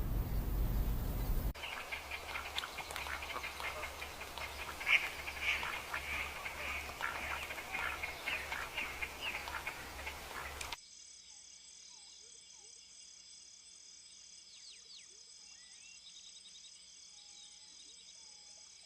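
Nature-sound recording of dense, chattering animal calls over a low pulsing hum. It cuts abruptly about 11 seconds in to a much quieter insect chorus of steady, high pulsing trills, with occasional short chirps gliding in pitch.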